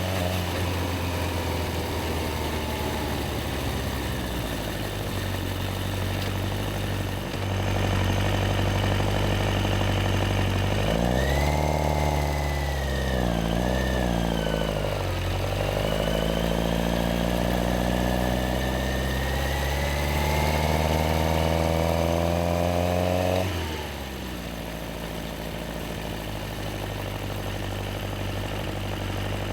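Yamaha XJR1300's air-cooled inline-four engine idling, then pulling away about a third of the way in, its pitch dipping and rising and then climbing steadily as it accelerates, before dropping back to a lower, steady running note near the end.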